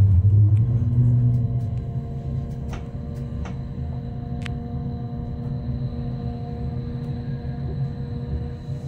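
Inside a Rhaetian Railway electric narrow-gauge train under way: the running gear gives a low rumble, loudest at first and then easing to a steadier level, with several steady hum tones above it. A few sharp clicks come a few seconds in.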